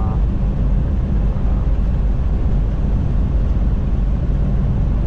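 Semi truck cruising at highway speed, heard from inside the cab: a steady low engine drone with road and tyre noise.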